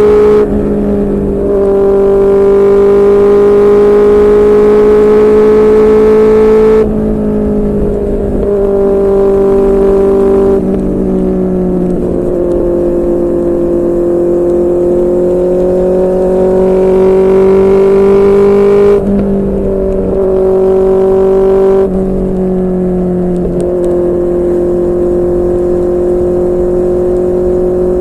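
QJMotor SRK600 inline-four motorcycle engine running through a Yoshimura R11 aftermarket exhaust while riding, the engine note rising and falling slowly with the throttle. Several times the sound drops suddenly in loudness and pitch, as the throttle is eased or a gear changes, then picks up again.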